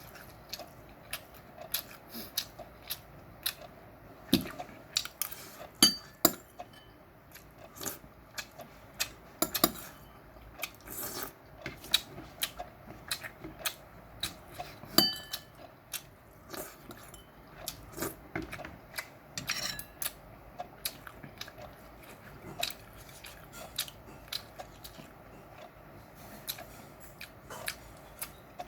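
Close-up chewing and biting of chewy meat, wet smacking clicks coming a few times a second, with occasional clinks of utensils against a dish.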